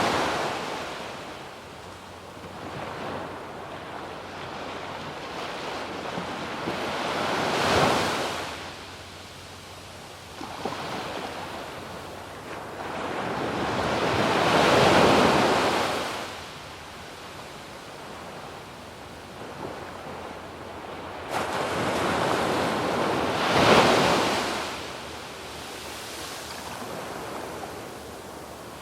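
Waves breaking and washing up a sandy beach, the surf swelling and fading about every seven to eight seconds, with the loudest break in the middle and another near the end. A light wind rush runs underneath.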